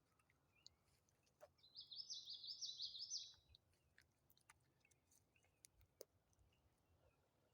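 A songbird sings one phrase of rapid repeated down-slurred notes, lasting about two seconds near the start, over faint scattered crackles from a wood fire.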